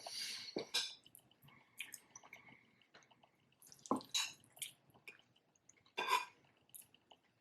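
Close-miked wet chewing and mouth sounds of someone eating soft chili-topped omelette. Short clusters of smacking clicks come at the start, about four seconds in and about six seconds in.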